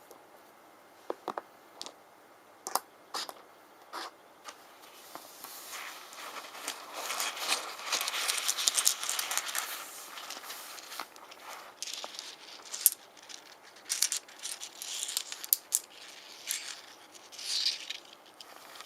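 Rune stones clicking against one another. A few separate clacks come first, then about five seconds in a dense clattering as the stones are jumbled together, and this thins back to scattered clicks and short rattles near the end.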